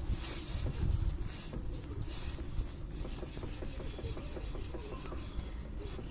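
BMW E39 528 front wheel hub spinning with a rough rubbing rumble and a few dull knocks, the knock the owner hears as the hub comes to a stop and puts down to worn front hub bearings.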